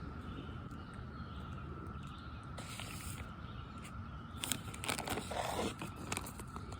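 Distant chorus of Brood X periodical cicadas, a steady high hum that does not waver. From about four and a half seconds in there is a second or so of close rustling and scraping.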